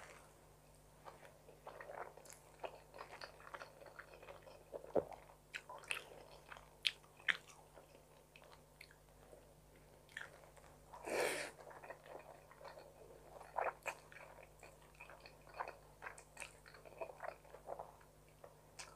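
Close-up eating sounds of a person chewing forkfuls of creamy tuna carbonara spaghetti: faint wet mouth clicks and chews, with one longer, louder rush of noise a little past the middle.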